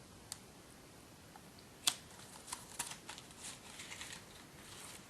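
Hands handling a DVD package: faint rustling and light clicks, with one sharper tap about two seconds in and a few softer ones just after.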